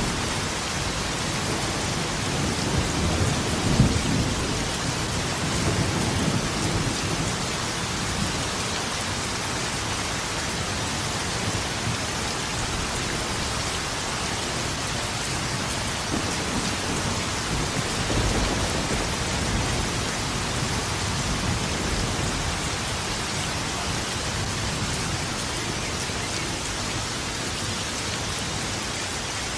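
Steady heavy rain with thunder rumbling: a louder roll with a sharp crack about four seconds in, and another long low rumble about halfway through.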